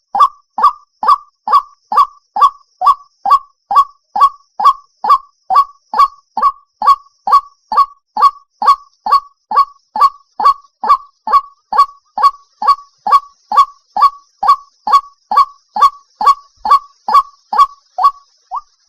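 White-breasted waterhen giving its repeated 'cuốc' call: a long, even series of short notes, about two and a half a second, each dropping in pitch.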